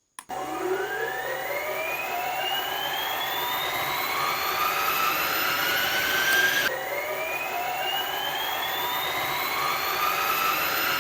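Small electric motor of a homemade matchbox mini helicopter whining as it speeds up, its pitch climbing steadily. About two-thirds of the way through, the pitch drops back abruptly and climbs again.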